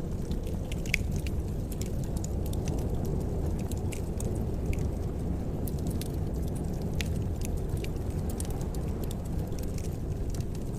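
Wood fire in a fireplace crackling: scattered sharp snaps and pops over a steady low rumble.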